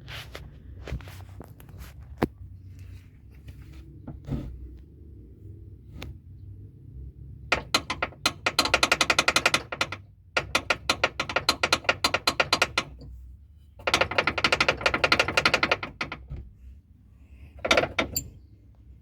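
Rapid knocking from under the rear of a 2010 Perodua Alza driven over a bumpy road, in three long runs of quick knocks, heard over a low road rumble.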